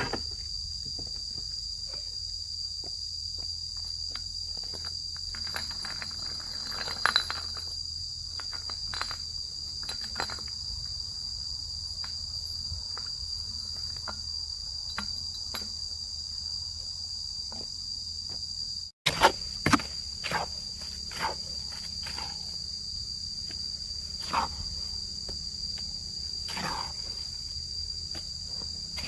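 A steady, high-pitched insect chorus, with scattered knocks and taps over it. The sound drops out for an instant about nineteen seconds in.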